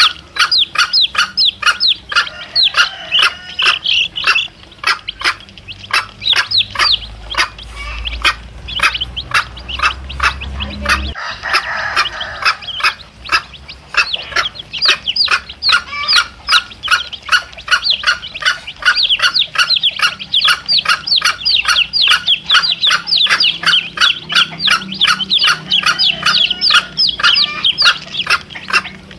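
A brood of chicks peeping continuously in rapid, short, falling high peeps, with a mother hen clucking low now and then.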